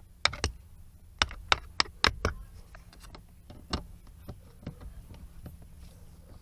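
Irregular sharp clicks and knocks of parts and tools being handled while a car battery is fitted back in place. Seven come in the first two and a half seconds, then one more and a few fainter ones.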